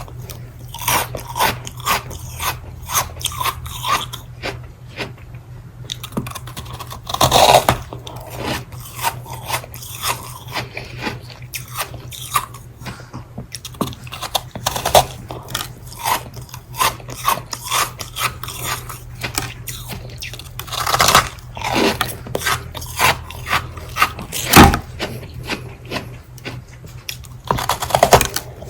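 A person biting and chewing ice in close-up, a fast run of crisp crunches with a few louder bites along the way.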